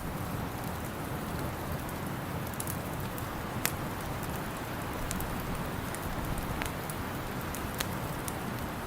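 Wood fire crackling, with scattered sharp pops over a steady rushing background; the loudest pop comes about three and a half seconds in.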